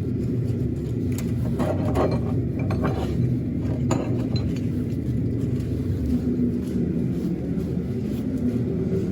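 A steady low rumble, with a few light metallic clinks between about one and four seconds in.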